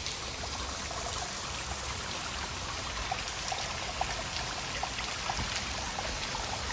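Waterfall water falling off the rock and splashing onto the rocks below: a steady rush with small scattered splashes.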